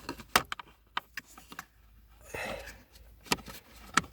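Irregular sharp clicks and taps of small plastic parts being handled and fitted by hand: the pieces of a VW Golf 5 air-flap positioning motor being worked into their grooves. A short soft hiss comes about halfway through.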